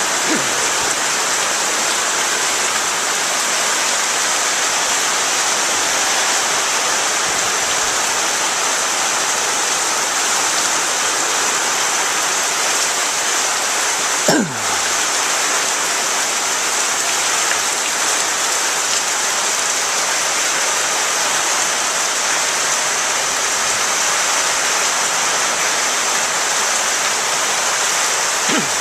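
Steady downpour of rain, an even hiss throughout. About halfway through, a brief sound slides sharply down in pitch, with a fainter one near the end.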